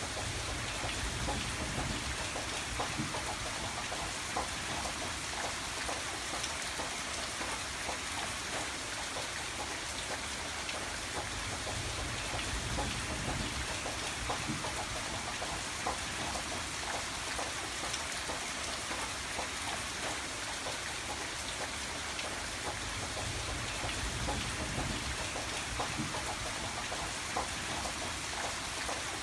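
Steady rain falling, with many small drops pattering on a surface and a low rumble underneath.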